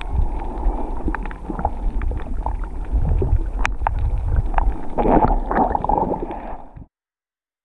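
Muffled water sloshing and gurgling around a camera in the water while snorkeling, with a low rumble and scattered clicks. The sound cuts off abruptly near the end.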